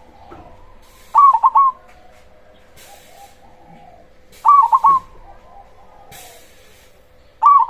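Zebra dove (perkutut) singing its cooing song: a loud phrase of three or four quick, clipped notes about every three seconds, each followed by softer, lower trailing coos. A faint steady hum runs underneath.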